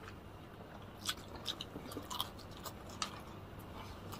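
People chewing and biting crispy fried chicken, faint, with scattered small crisp clicks from the coating.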